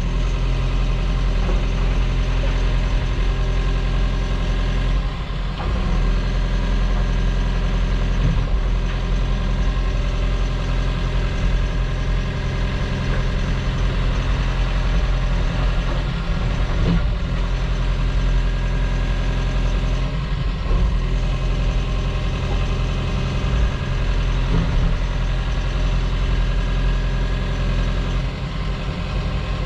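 Diesel engine of heavy earthmoving equipment running steadily while spreading 3-inch minus rock for a road base, its level dipping briefly a few times as the load changes.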